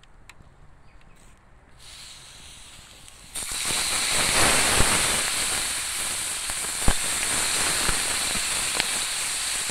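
Chopped chiton meat and seasonings hitting hot oil in a frying pan: a loud sizzle starts suddenly about three seconds in and keeps going steadily, with a few sharp clicks of the fork against the plate.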